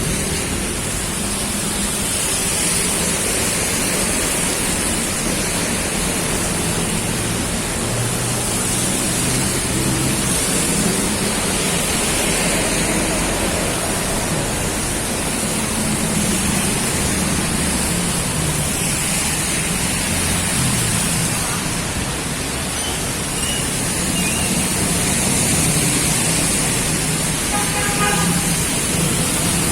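Heavy tropical downpour, a steady rush of rain with no letup, with the low hum of road traffic underneath.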